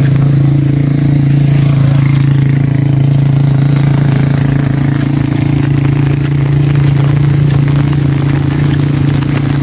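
An engine or motor running steadily at one unchanging pitch, a loud low hum, over a steady hiss of rain.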